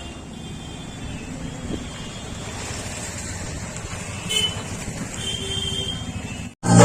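Vehicle engine running under outdoor traffic noise, with a short horn-like toot about four seconds in and another brief tone a second later. The sound drops out near the end and loud music begins.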